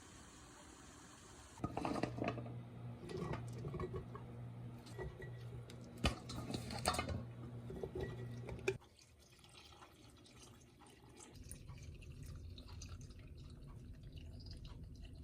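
Water running with small clinks of dishware for several seconds, stopping abruptly about nine seconds in; a faint low hum follows.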